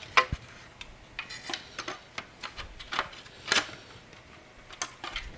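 Irregular plastic and metal clicks and knocks from handling cables and connectors inside a computer case while routing them, with a short rattle of quick ticks about a second in.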